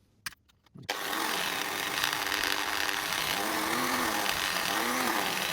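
Small handheld power tool starts about a second in and runs steadily, its pitch dipping and recovering again and again as it is pressed against the work. It is cleaning rust off a model locomotive's piston rods.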